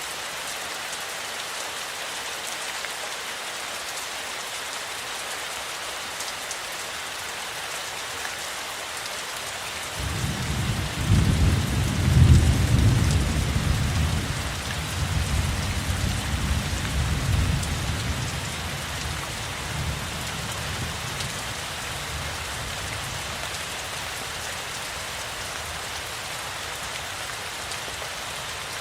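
Steady rain falling, with a low roll of thunder that starts suddenly about a third of the way through. The thunder is loudest a couple of seconds later, then rumbles away over about eight seconds while the rain carries on.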